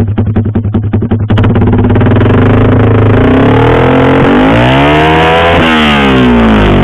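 Yamaha R15 V3 single-cylinder engine breathing through a WRX GP6 MP1 aftermarket silencer with its baffle in: a pulsing low-rev beat, then the throttle snaps open about a second in and the engine revs hard. The pitch climbs to a peak late on and falls back. Loud, and the owner says it stays clean without breaking up.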